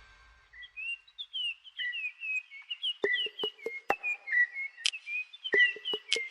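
Quick, bird-like whistled chirps, each a short gliding note, repeating in a busy run. A series of sharp clicks joins in about three seconds in.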